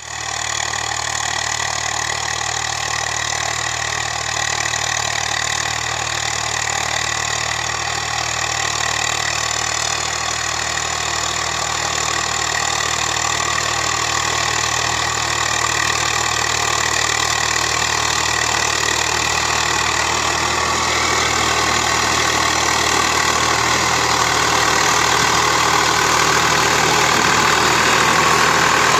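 Swaraj 744 FE tractor's three-cylinder diesel engine running steadily, growing a little louder over the last few seconds.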